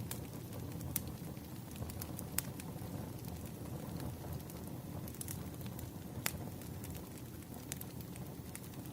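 Campfire burning: a steady low rumble of flames with scattered sharp crackling pops, irregularly spaced about a second or more apart.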